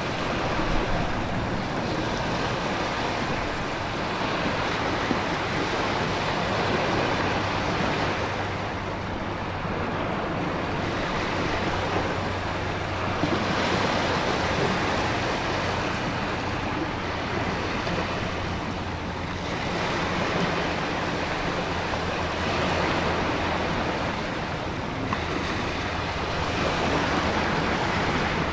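Storm ambience: ocean waves surging and breaking in slow swells every few seconds, with wind and a steady rain hiss over a low steady rumble.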